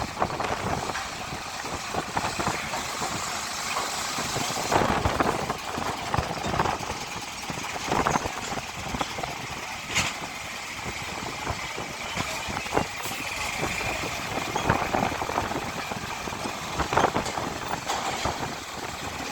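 Diesel truck engines idling and running, with irregular knocks and clanks scattered through.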